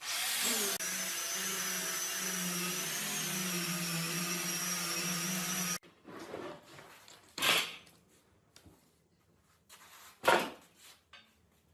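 A small electric power tool motor starts and runs steadily with a whine, then cuts off about six seconds in; a few short knocks follow.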